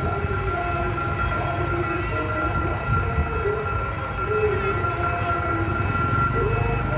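A vehicle or machine running steadily: a low rumble under several whining tones, some holding one pitch and others wandering up and down.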